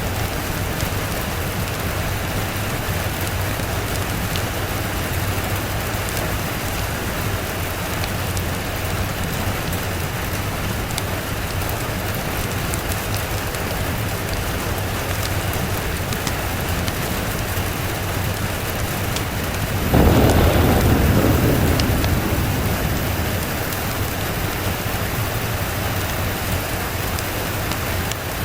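Steady rain, with a sudden thunderclap about two-thirds of the way through that rumbles low and fades over a few seconds.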